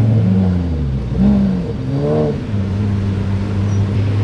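V8 car engine being blipped: its pitch rises and falls quickly a few times, then settles to a steady idle about two and a half seconds in.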